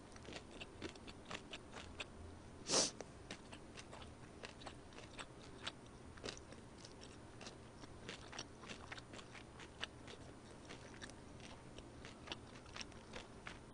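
Chewing food close to a microphone: a steady run of small wet mouth clicks, with one louder click about three seconds in.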